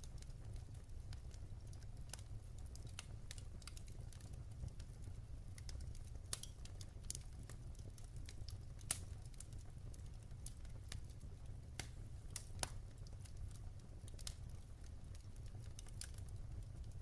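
Wood fire crackling: irregular sharp pops and snaps of burning logs over a low steady rumble, with a few louder pops along the way.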